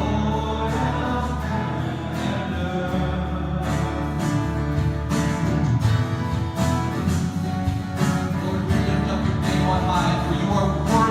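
Congregation singing a worship song accompanied by guitar, with a steady rhythmic strum.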